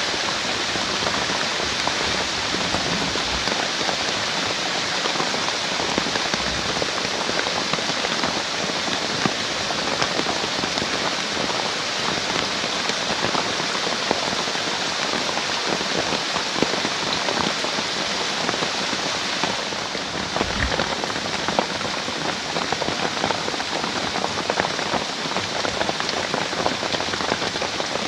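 Heavy rain falling steadily, a dense hiss of countless small drop hits.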